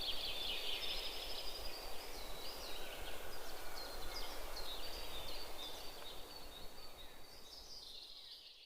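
Several small birds chirping and calling over one another in quick, high, repeated notes over a steady background hiss, fading out near the end.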